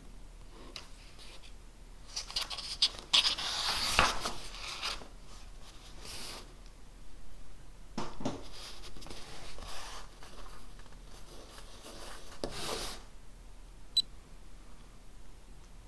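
Desk sounds of paper and pen: irregular spells of scratching and rustling, with a couple of sharp knocks about three and four seconds in. A single short, high ping sounds near the end.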